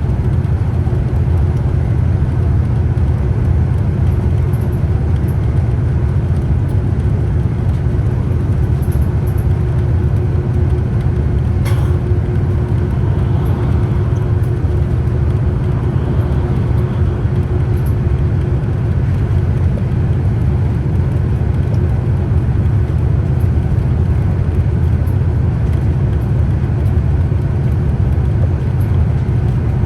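Scania Citywide city bus running steadily, a loud, even low rumble of engine and road noise with a steady hum riding over it. There is one short click or knock about twelve seconds in.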